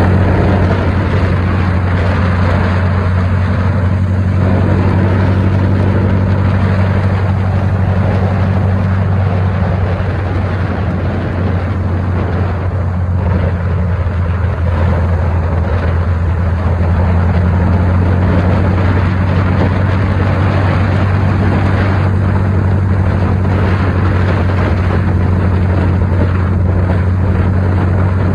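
VW Super Beetle's air-cooled flat-four engine running steadily at cruising speed, with road and wind noise rushing in through the open space where the windshield has been removed.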